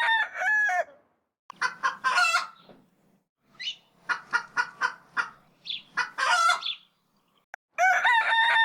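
Rooster crowing: the tail of one crow at the start and a full crow near the end, with shorter chicken clucks and cackles in between.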